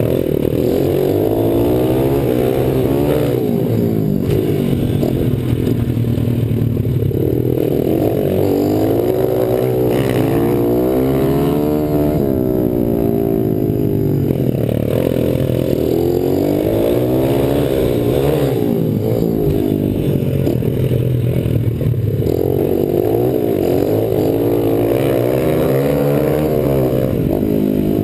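Pit bike engine running hard, revving up and falling back again and again as the throttle is opened and closed.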